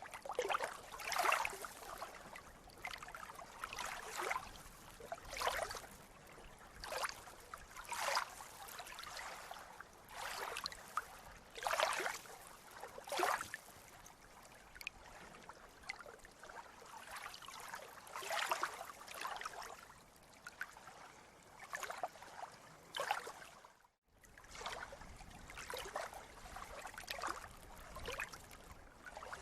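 Seawater lapping and splashing in quick, uneven swishes about once a second, with a momentary cut to silence about four-fifths of the way through.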